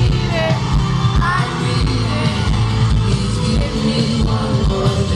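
Live pop/R&B song: a sung vocal over a band with heavy bass and a steady beat, the voice sliding between notes in the first second or so.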